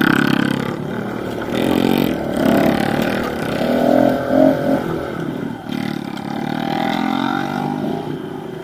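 Pit bike engine running under way, revving up and down as the rider goes.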